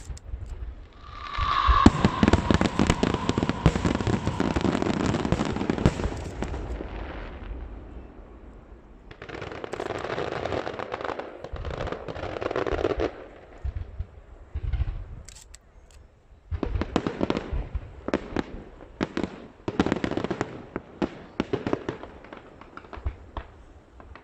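Aerial fireworks display: a dense volley of bangs and crackling, then a second, shorter volley, then a run of sharp, separate bangs in the last third.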